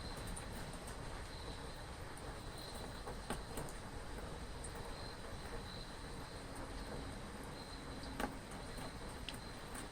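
Steady rain hiss with a few sharp drips, and crickets trilling in a steady high tone.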